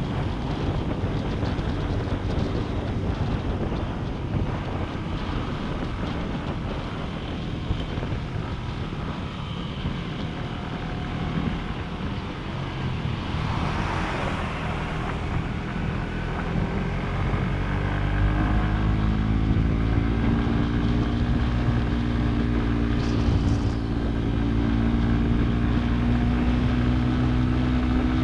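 Motorcycle engine running under way, with wind noise buffeting the microphone. In the second half the engine note comes through clearly and rises slowly as the bike accelerates, and there is a brief hissing swell just before.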